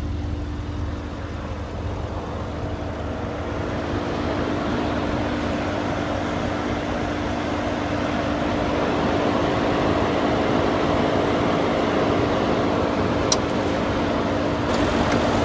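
Mercedes-Benz S63 AMG's 5.5-liter twin-turbo V8 idling steadily, with a single click about thirteen seconds in.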